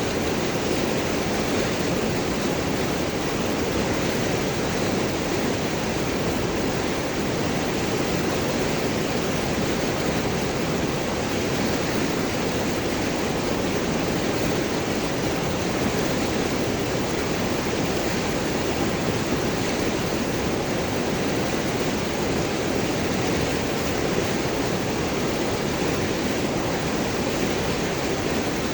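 River water rushing and gurgling over and around large rocks, a steady even roar of flowing water with no breaks.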